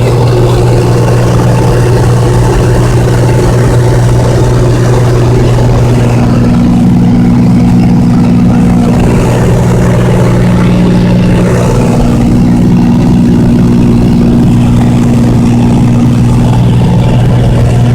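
Cabin drone of a Cessna 206 in cruise: the single six-cylinder piston engine and propeller running steadily, heard loud from inside the cabin.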